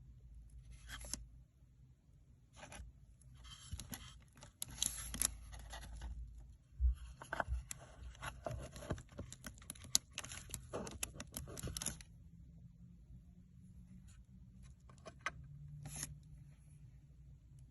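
Quiet rustling and scraping handling noises with scattered sharp clicks, busiest through the middle and sparser near the end.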